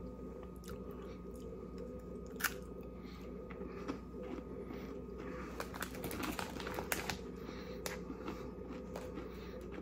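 A person biting into and chewing a thin, crunchy cheddar-dusted pretzel snack (Cheetos Cheddar Pretzels): one sharp crack of a bite about two and a half seconds in, then scattered crunching chews, thickest around six to seven seconds.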